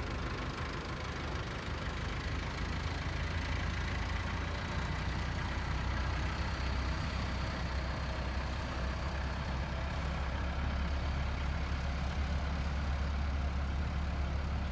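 Tractor engine running steadily: a deep, even low hum with a faint higher whine above it.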